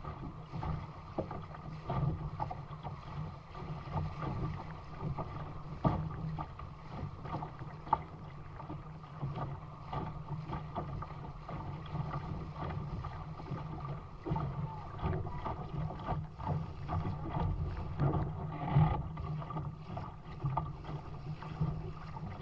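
Water rushing and splashing along a sailing dinghy's hull as it sails upwind, with wind buffeting the microphone in uneven gusts.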